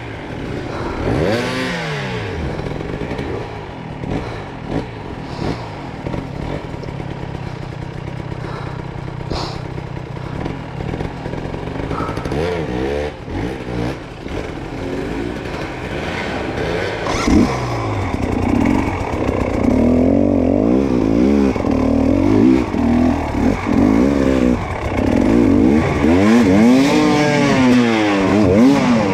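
Dirt bike engine revving up and down over and over under hard throttle, with a few knocks and clatter. It grows louder and busier about halfway through.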